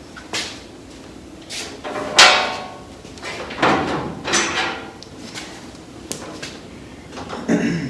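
Metal parts being handled: a series of knocks and scrapes, the loudest a ringing clang about two seconds in.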